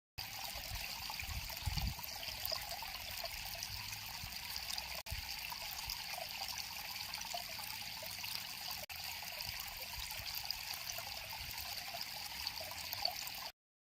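River water flowing and trickling in a steady rush, cutting out for an instant twice, about 5 and 9 seconds in, with a brief low bump near 2 seconds.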